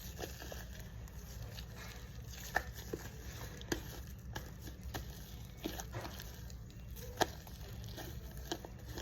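Slime being squished and stretched by hand: scattered small pops and clicks at irregular intervals over a low steady hum.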